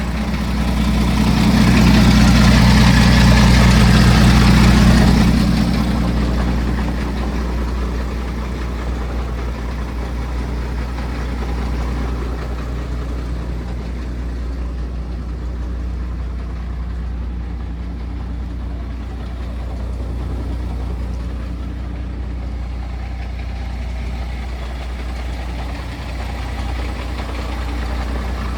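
MAN TGM 18.240 truck's six-cylinder diesel engine idling steadily, louder and fuller for a few seconds near the start before settling back to an even idle.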